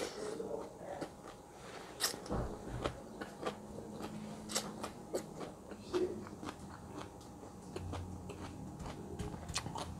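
Close-miked chewing of a mouthful of asinan Bogor (raw bean sprouts and cabbage in chili sauce), with scattered sharp, crisp crunches as the food is bitten.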